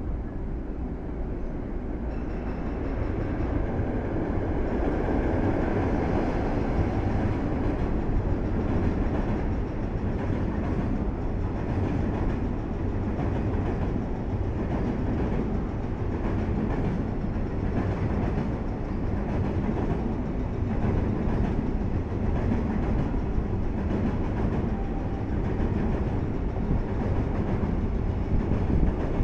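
A JR Freight high-speed container train hauled by an EF66 electric locomotive passes through without stopping. Container flatcars rumble by with their wheels clacking over the rail joints in a steady rhythm. The sound swells about three seconds in as the train comes alongside.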